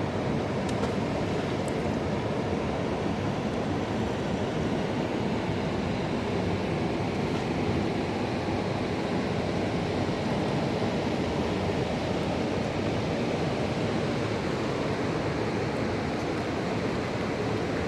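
Fast-flowing mountain river rushing steadily, a constant noise that does not rise or fall.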